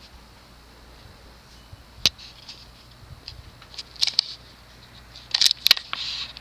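Cast-iron CEC motor of a Moss Hi-Line 42-inch ceiling fan running on low speed with a faint steady hum. Scattered sharp clicks and short crackly rustles come about two seconds in, about four seconds in, and in a louder cluster near the end.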